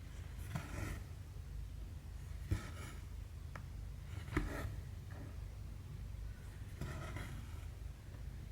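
Cross-stitch needle and embroidery floss drawn through 14-count fabric: a soft swishing pull about every two seconds, with a few small sharp ticks, over a low steady hum.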